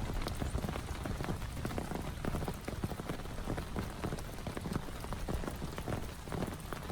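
Heavy rain falling steadily, with many separate drops hitting a nearby surface close together.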